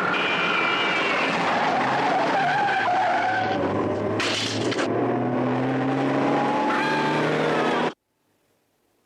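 Car engines running hard in a chase, their pitch rising and falling as they rev, with tyres skidding and a short burst of harsh noise about four seconds in. Near the end all sound cuts off abruptly.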